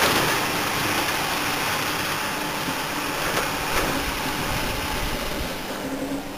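Microwave oven running with a DVD player burning inside it: a steady hum and hiss that eases slightly near the end.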